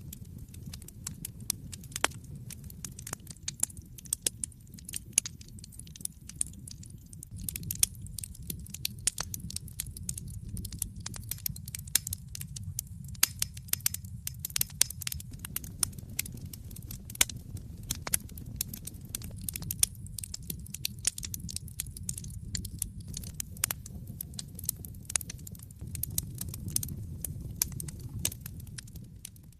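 Wood fire in an open fireplace crackling: irregular sharp pops and snaps several times a second, some much louder than the rest, over a low steady rumble of the flames.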